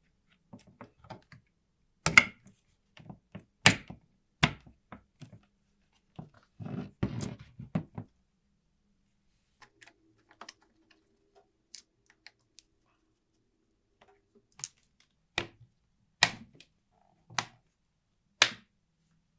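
Irregular sharp knocks and clicks of metal parts and tools being handled and set down on a workbench, with a brief stretch of denser rattling and scraping partway through.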